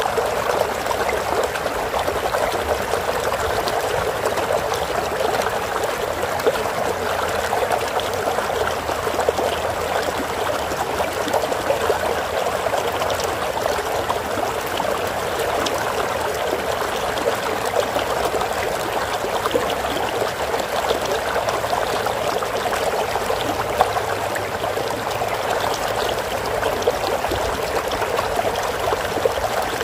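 Steady flowing stream water, a continuous trickling babble with no pauses.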